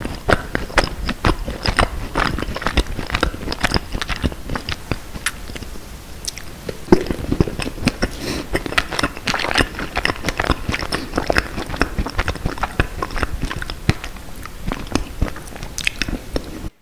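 A person biting into and chewing macarons close to the microphone: many small, irregular crunches and mouth clicks.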